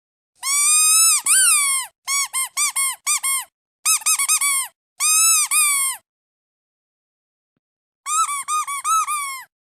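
A squeaky duck toy squeezed over and over. First two long squeaks, then quick runs of short squeaks and another long one. After a pause of about two seconds comes a last quick run.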